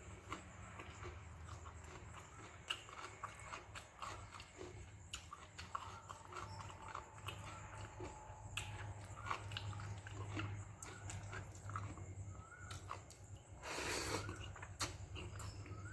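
Close-up chewing and mouth clicks of a person eating fermented rice (pazhaya sadam) with okra stir-fry, over a steady low hum. A brief louder, noisy sound comes near the end.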